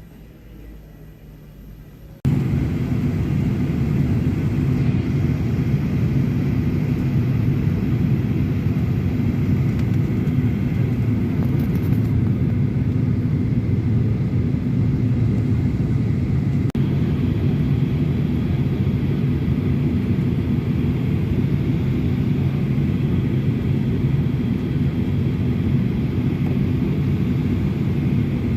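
Airliner engine noise heard inside the passenger cabin: a loud, steady rumble that starts abruptly about two seconds in and stays even throughout.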